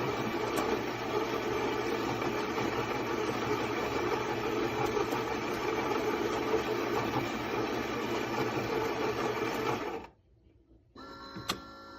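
Philips fully automatic espresso machine's built-in ceramic grinder grinding coffee beans for a double drink. It runs steadily for about ten seconds and then cuts off.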